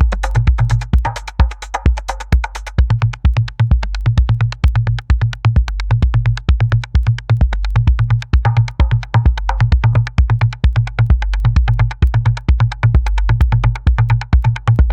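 Electronic music track with a fast drum-machine beat and synthesizer over a heavy bass line; the bass drops out briefly about three seconds in.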